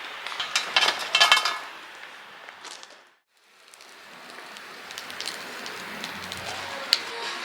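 Dishes and cutlery clinking over a steady hiss, fading out to silence about three seconds in. A wood fire's crackling then fades in, with one sharp pop near the end.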